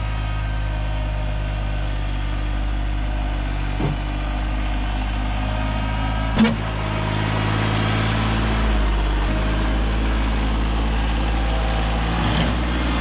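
Rural King RK24 compact tractor's engine running steadily, with a knock about four seconds in and a sharper metallic clank a couple of seconds later. The engine note rises a little near the middle.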